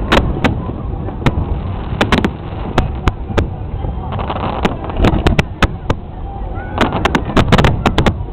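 Fireworks shells bursting in a rapid, irregular run of sharp bangs, thickening into dense clusters about four seconds in and again near the end, over a low rumble.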